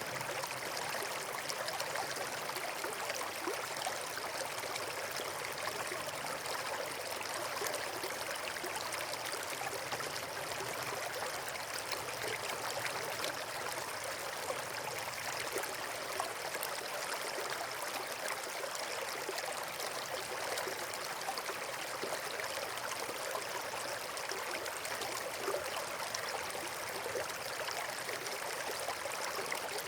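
Flowing water, a stream or small waterfall, rushing steadily and evenly.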